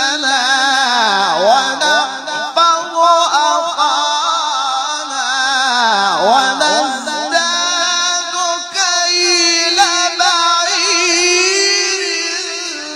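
Melodic Quran recitation by a single voice, with long held, wavering notes and two deep swooping pitch glides, about a second in and again near six seconds.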